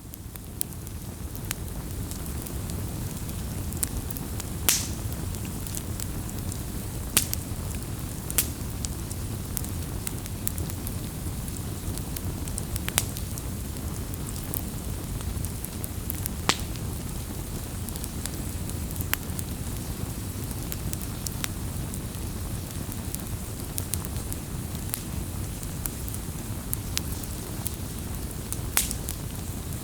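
Wood fire burning, with a steady low rush of flames and irregular sharp crackles and pops, a few much louder than the rest. The sound fades up over the first couple of seconds.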